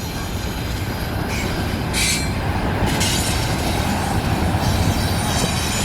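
Intermodal container cars of a freight train rolling past: a steady rumble of steel wheels on rail, with faint high-pitched wheel squeal at times.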